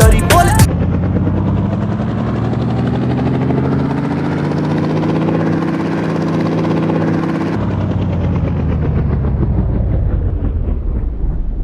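Helicopter running steadily, its engine and rotor tones rising slowly in pitch. About seven and a half seconds in, the higher part of the sound drops away, leaving a lower steady rumble.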